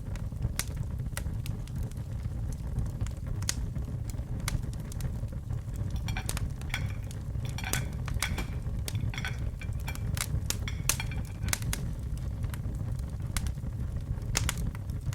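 Wood fire burning in a fireplace, with a steady low rumble and scattered sharp crackles and pops. Through the middle stretch there is a cluster of short, high-pitched chirps.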